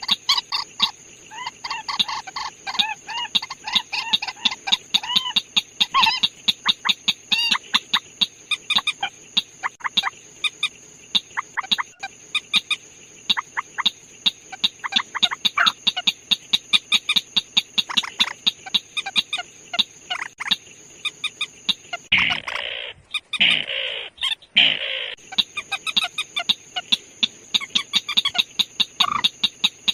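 Purple swamphen giving rapid, repeated short clucking calls. A steady high whine runs beneath, and about 22 seconds in there are a few seconds of louder, harsher calls.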